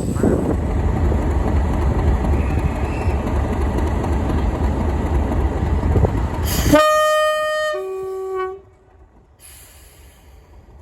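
Loud rumbling noise of a train on the move that cuts off abruptly, followed by a train's two-tone horn: a higher note for about a second, then a lower note.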